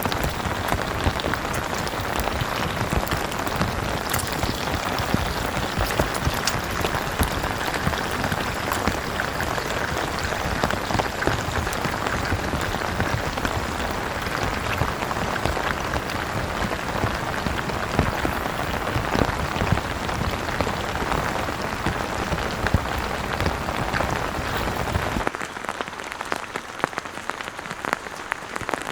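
Heavy rain beating on a tent awning, a dense, steady patter of drops. About 25 seconds in it turns abruptly quieter and thinner.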